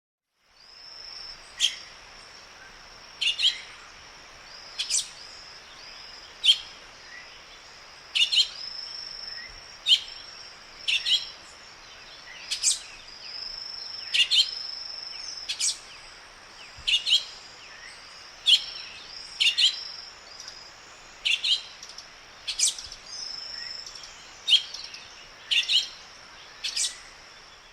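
A bird giving sharp, loud chirps, one roughly every one and a half seconds, over a steady high, thin trill that breaks off now and then.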